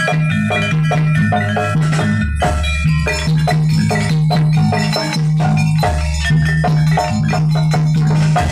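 Jaranan gamelan music: quick runs of struck metal-keyed percussion over drums, with a held low note and changing bass notes underneath.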